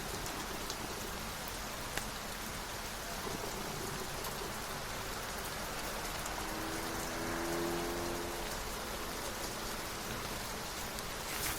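Steady rain falling on a surface, with a few light ticks. A soft pitched hum swells and fades about two-thirds of the way through.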